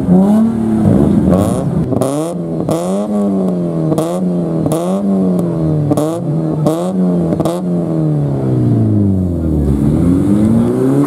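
Sports car engine being revved hard while stationary: a string of quick throttle blips, roughly one and a half a second, each with a sharp crackle at its peak, then a slower drop and climb in revs near the end.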